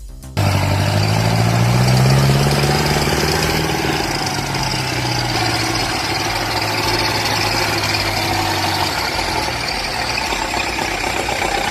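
Tractor diesel engine running hard under load. It cuts in suddenly about half a second in, climbs a little in pitch over the next couple of seconds, then runs steadily.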